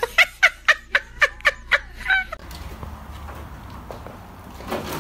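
Pug giving a quick run of short, high-pitched yips, about four or five a second, excited at the offer of a treat. After about two seconds they stop and a steady hiss remains.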